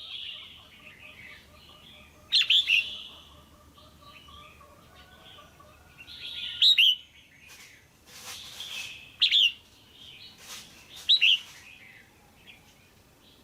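Female red-whiskered bulbul calling: four loud, short chirping phrases a few seconds apart, with softer chatter between them. This is the kind of call used to rouse a male bulbul or to pair birds.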